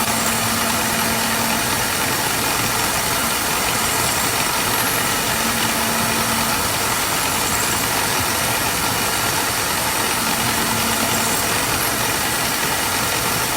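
Steady machinery noise in a valve-making factory. A low hum comes in for about a second and a half roughly every five seconds, like a repeating machine cycle.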